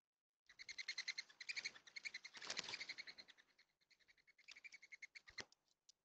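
Birds at a feeder making a rapid pulsed twittering, about ten pulses a second, strongest in the first half and thinning to scattered pulses near the end. A single soft knock near the end.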